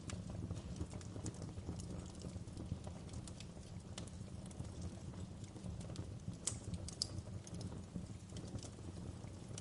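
Wood fire in a fireplace crackling, with irregular sharp pops and snaps over a low, steady rumble of burning. A few louder pops come about four seconds in and again around six and a half to seven seconds.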